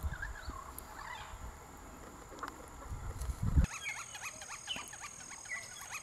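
Wild birds calling: a few descending chirps over a low rumble, then, after a change about three and a half seconds in, a busy run of short, arching chirps over a steady high-pitched tone.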